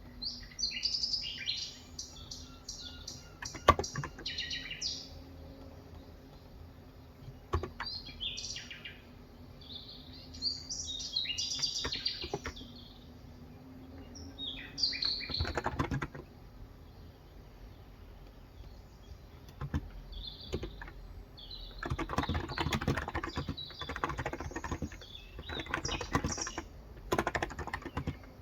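Birds chirping in short bursts through the first half. Then typing on a Cox Endeavor electrocapacitive (non-contact) 35g tenkeyless keyboard: a few lone keystrokes at first, then rapid runs of keystrokes in the last third.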